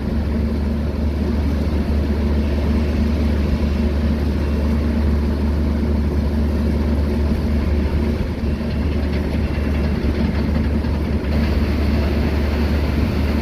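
Heavy earthmoving machinery's diesel engine running steadily: a low, even drone that dips briefly about eight seconds in.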